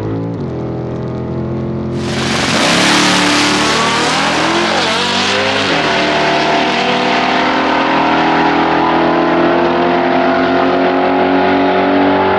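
Dodge Charger's supercharged Hellcat Redeye V8 on a full-throttle quarter-mile drag pass. Idling first, it launches about two seconds in with a sudden surge of noise. The engine pitch climbs, dips at the gear shifts a few seconds later, and is held high and steady at full power to the end.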